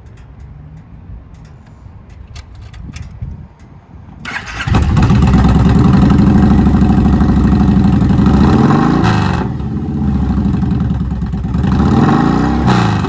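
Kawasaki Vulcan 1700's fuel-injected, liquid-cooled V-twin with Vance & Hines exhaust starting up about four seconds in, then running loud with a couple of throttle blips.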